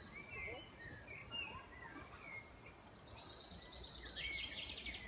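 Songbirds singing: a string of short chirps throughout, joined about three seconds in by a fast, high trill that runs for about two seconds.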